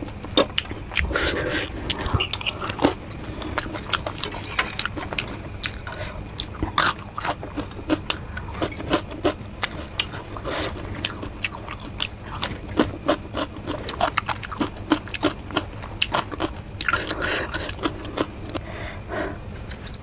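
Close-miked chewing and wet mouth clicks of a person eating egg chow mein noodles, with fork and spoon scraping on the plate near the start.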